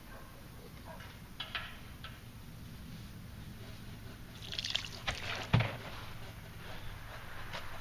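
Petrol being poured into a carburettor intake, a light trickle among handling clicks, with one sharp knock a little past the middle.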